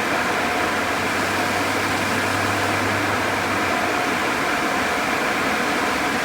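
Sonny's car wash tunnel equipment running: a steady, loud rush of noise with a faint whine over it and a low hum that stops about three and a half seconds in.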